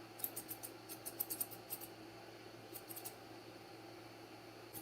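Grooming scissors snipping stray hair off a dog's ears, faint quick runs of short crisp snips with pauses between, the last run about three seconds in.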